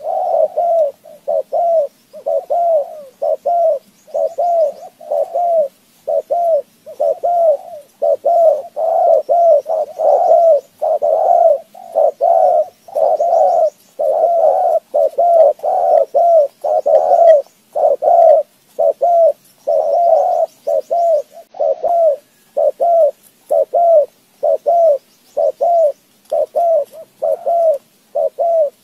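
A bird giving short, low cooing notes, about two a second, in an unbroken run.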